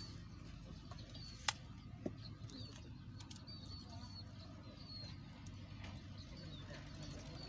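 Small birds chirping in short repeated notes, with two sharp clicks about a second and a half and two seconds in.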